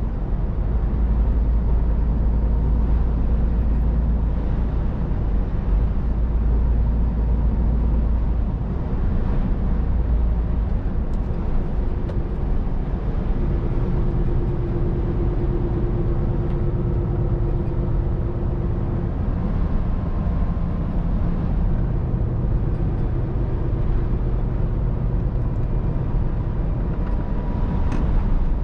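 Scania R500 truck driving: a steady low engine drone with road and tyre noise. The engine's tone shifts in pitch now and then.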